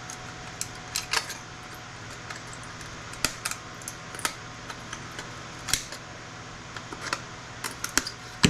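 Irregular clicks, snaps and light clatter of plastic and glass parts being pried off a scrap circuit board by hand, an LCD panel and its backlight, over a steady low hum. The loudest snap comes near the end.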